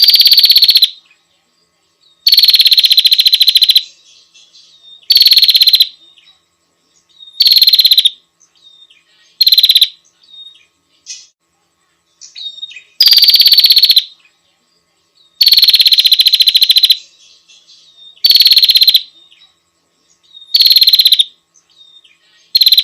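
Female prinia (prenjak) repeating a rapid buzzing trill about ten times, each trill half a second to a second and a half long and starting slightly higher before settling, with faint short chips between. It is the call a female gives to summon a male.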